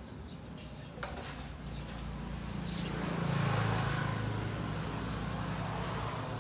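A passing vehicle: a low rumble and broad road noise that build to a peak about three and a half seconds in and then slowly ease off, with one short high chirp just before the peak.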